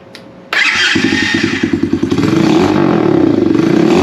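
Pit bike engine running through its old muffler. It cuts in suddenly about half a second in and then runs on with a fast, pulsing exhaust note.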